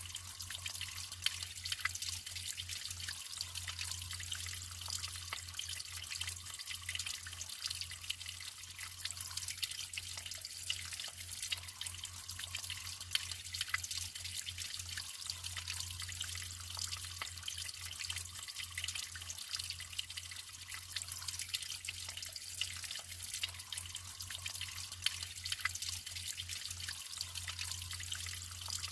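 Natural water running and trickling steadily, full of many small splashing droplets, with a low steady hum of the flow beneath.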